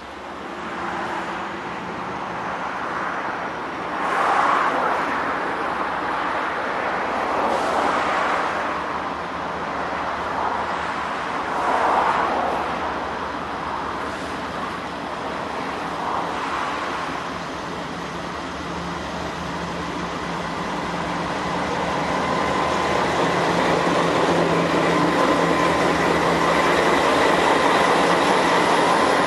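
Road traffic passing, a vehicle swelling by about every four seconds. Then a steady rumble with a thin whine grows louder through the second half as a Norfolk Southern diesel freight train approaches.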